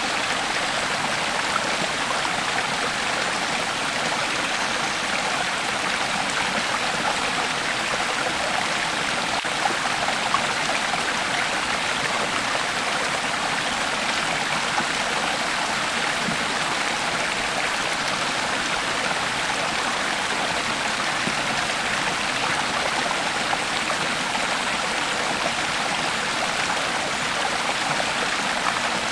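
Creek water flowing steadily over rocks: an even rushing and babbling with small splashes and no pauses.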